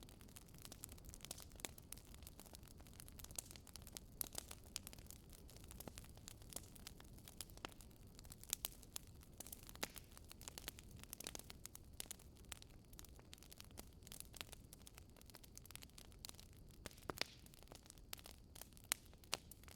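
Swedish fire log burning, the wood crackling with irregular sharp pops over a faint low rumble.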